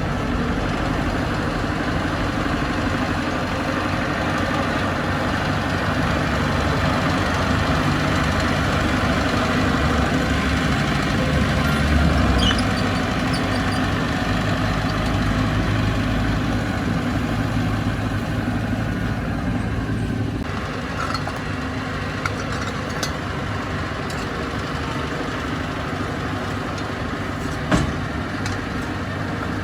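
Bulldozer's diesel engine running steadily, loudest about twelve seconds in and easing back about two-thirds of the way through, with a sharp knock near the end.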